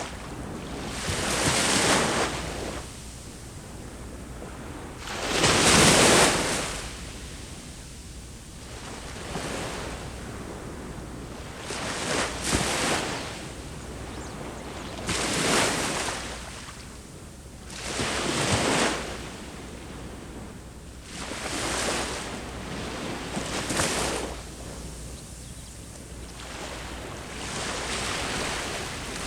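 Ocean waves breaking on the shore, a wash of surf swelling and falling back about every three seconds, the biggest break about six seconds in. A low rumble of wind on the microphone runs underneath.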